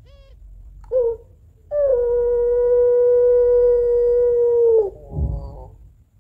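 Puter pelung hen, a Barbary dove variety bred for its long voice, calling to a male. A short note about a second in, then one long, level, howl-like wailing note held for about three seconds that dips in pitch at the end, followed by a brief quavering coo with a soft thump.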